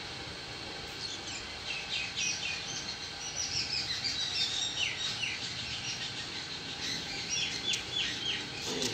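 Birds chirping in quick runs of short, high notes that come and go.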